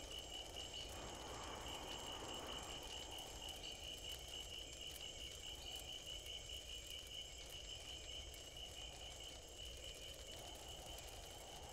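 Faint night ambience of crickets chirping: a steady high chirp pulsing evenly over a low hiss.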